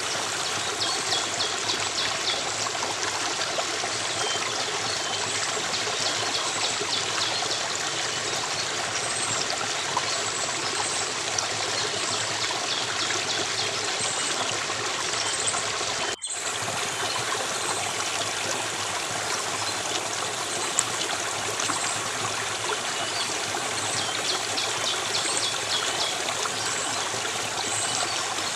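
A stream of water running steadily, with brief high rapid chirps of birds a few times over it. The sound drops out for an instant just past halfway.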